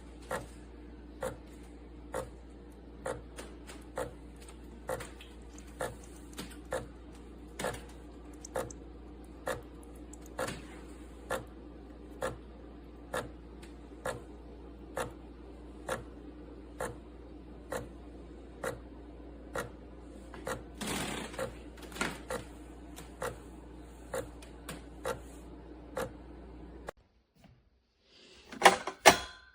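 De'Longhi La Specialista Opera espresso machine running with a steady hum and a regular click a little more than once a second, stopping abruptly near the end, followed by a short clatter.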